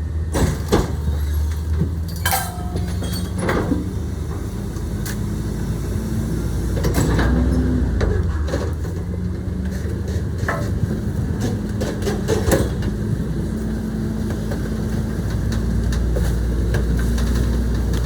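Garbage truck's engine running steadily, with scattered metallic clanks and knocks.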